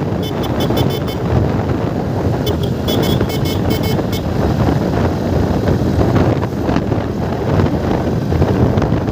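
Wind buffeting the microphone on a moving Hero Splendor motorcycle, with the bike's engine and road noise underneath as a steady low rumble. Two quick runs of short high-pitched beeps sound, about a quarter second in and again between about two and a half and four seconds in.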